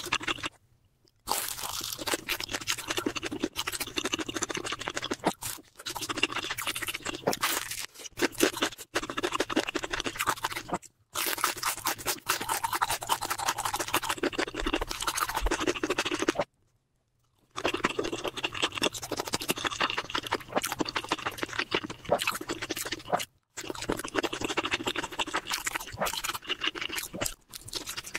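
Close-miked chewing and wet mouth sounds of a person eating rice and curry, ASMR mukbang style, broken by a few brief silences.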